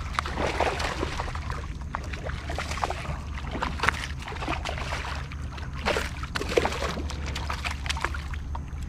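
Water splashing and sloshing at the side of a kayak as a hooked snook is fought to the boat, with irregular sharp splashes over a steady low rumble.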